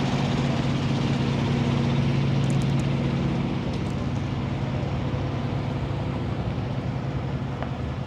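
A semi truck's diesel engine idling with a steady low hum that eases off a little about three and a half seconds in.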